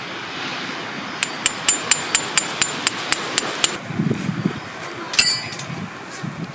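Hammer driving a metal tent peg: a quick run of about a dozen ringing metallic strikes, roughly four a second, then after a pause one louder strike near the end.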